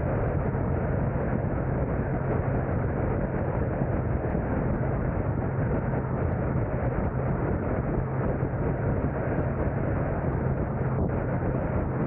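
Car driving: steady road and wind noise with a low, even hum underneath.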